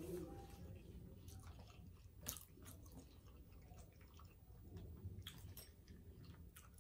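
Faint chewing and lip smacks of someone eating a hot, soft mouthful of chicken pot pie, with scattered soft mouth clicks.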